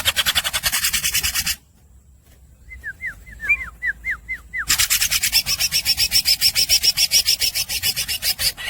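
Green leafbird (cucak ijo) singing: a fast, harsh rasping trill of about nine strokes a second, broken in the middle by a run of short down-slurred whistled notes, after which the rasping trill starts again and runs for about four seconds.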